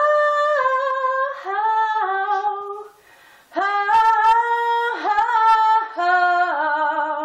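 A young woman's solo singing voice with no accompaniment, holding and sliding between notes in four phrases with no clear words.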